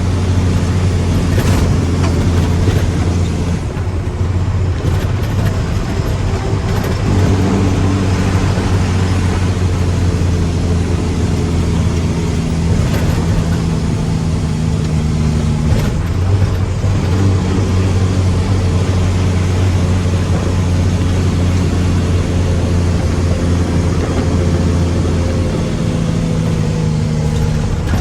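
Mack dump truck's diesel engine running steadily with a deep, even drone and only small changes in pitch.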